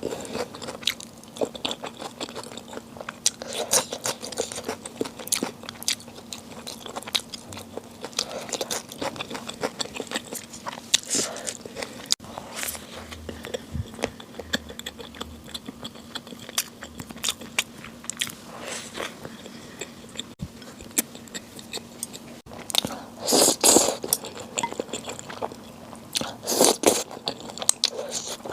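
A person eating close to the microphone: repeated bites and chewing with small wet clicks, and a couple of louder bursts of chewing in the later part.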